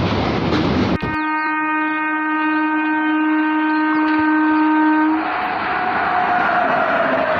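Rushing wind and train noise, then about a second in a train horn sounds one long, steady blast lasting about four seconds. After it stops, the rushing train noise returns with a fainter tone.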